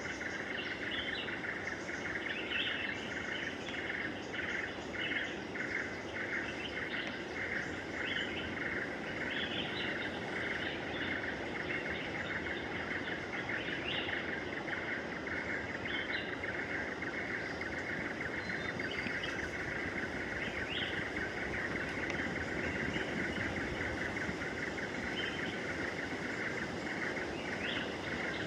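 A steady insect chorus, a high buzzing drone that pulses rapidly for the first dozen seconds and then runs continuously, with short scattered bird chirps over it.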